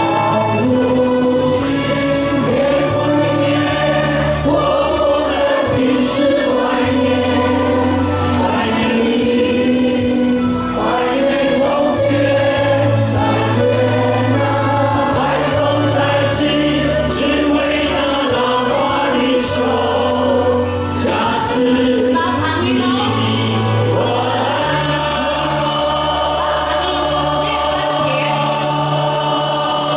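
Many voices singing together in chorus over a band accompaniment with a steady bass line, in a live outdoor concert sing-along finale.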